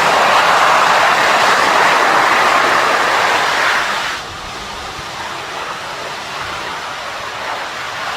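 Military transport aircraft engines running, a loud steady rushing noise that drops suddenly and turns duller about four seconds in.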